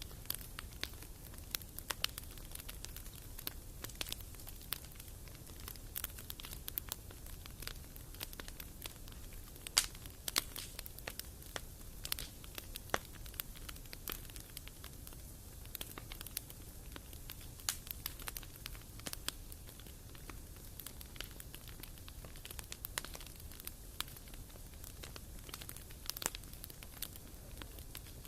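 Wood fire burning in a fireplace, crackling with irregular sharp pops over a low, steady burning noise; one pop about ten seconds in stands out as the loudest.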